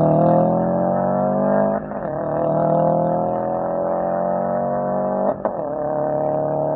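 Car engine and aftermarket exhaust under hard acceleration, the engine note climbing steadily through the gears with two quick upshifts, one about two seconds in and one about five seconds in, where the pitch drops and then rises again.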